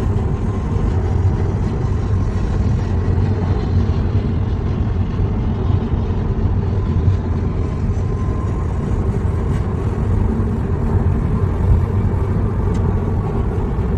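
Steady rumble of a car on the road, engine and road noise continuing evenly with no sharp impacts.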